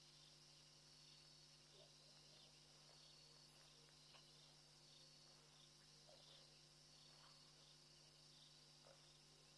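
Near silence with faint, steady insect chirring, typical of crickets.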